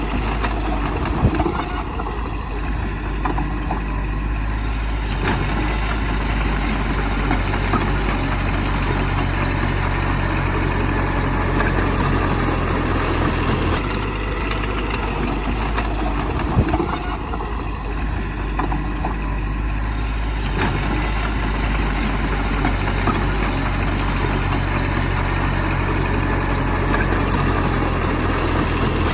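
Heavy diesel engine of earthmoving machinery running steadily, its pitch shifting partway through, with a short loud knock about a second in and another past the halfway point.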